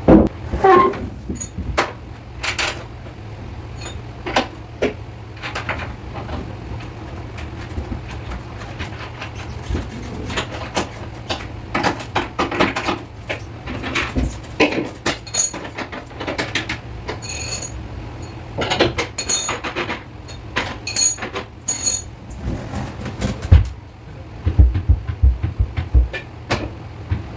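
Irregular knocks, taps and clatter of hands-on installation work, some strokes sharp with a brief ringing edge, over a steady low hum.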